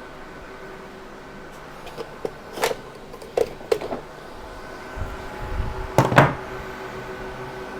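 Several sharp knocks and clacks, then a few heavier thuds about six seconds in, over a steady mechanical hum.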